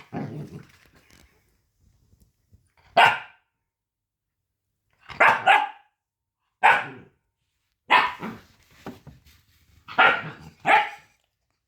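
Husky puppy barking in a high, piercing voice: about eight short, separate barks a second or two apart, some in quick pairs.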